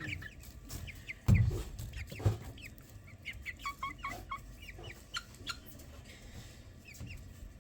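Newly hatched chicks peeping, many short, high chirps in quick succession, with two loud thumps a second apart near the start.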